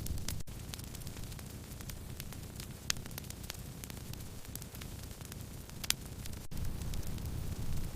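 Wood fire crackling, with scattered small crackles and a couple of sharper pops about three and six seconds in, over a low steady rumble.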